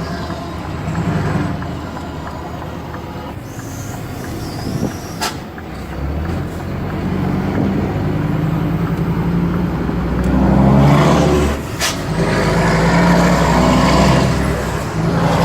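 Scania P250 truck's diesel engine running through a straight pipe with no muffler, idling and swelling up in revs a few times. Two brief sharp snaps cut through, about a third of the way in and again past the middle.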